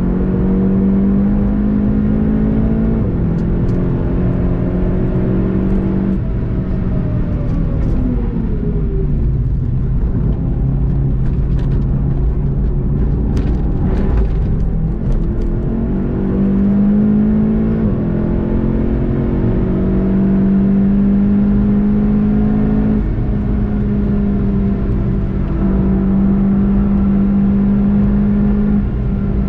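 Golf GTI TCR's turbocharged 2.0-litre four-cylinder engine under hard driving, heard from inside the cabin over road noise. It shifts up twice, then its note falls away as the car brakes and downshifts for a slow banked corner, during which a few sharp ticks are heard. From about halfway it climbs again through two more upshifts under full acceleration.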